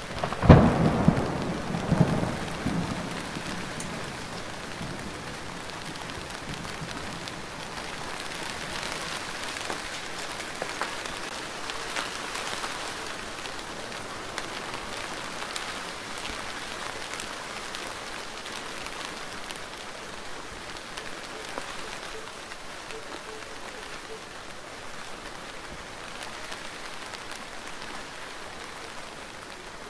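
Steady rain falling, with individual drops ticking through it. Near the start a loud, deep rumble swells twice and fades away over a few seconds.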